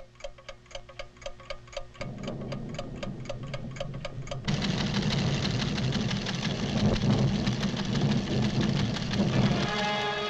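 Laboratory instruments ticking rapidly and evenly, about four to five ticks a second. A low hum joins about two seconds in, and about four and a half seconds in a loud, dense rumble takes over and covers the ticking, with orchestral music starting near the end.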